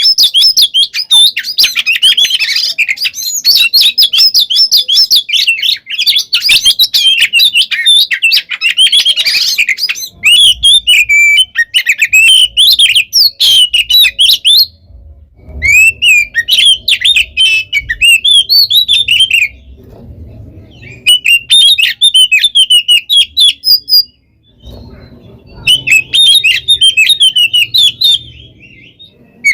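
Oriental magpie-robin (kacer) singing a loud, fast, aggressive fighting song of rapid chattering and warbling phrases. The song is unbroken at first, then breaks into bursts separated by short pauses in the second half.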